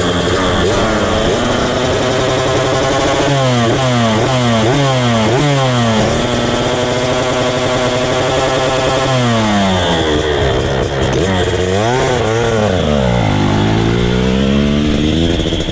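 Dirt bike engine accelerating through the gears, its pitch climbing and dropping back with each shift several times in quick succession, then a longer pull. It eases off and picks up again near the end.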